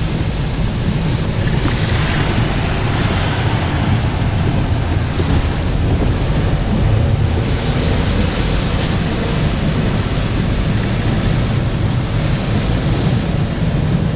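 Steady rushing road and wind noise inside a moving car, heaviest in the low rumble, with no distinct knocks or tones standing out.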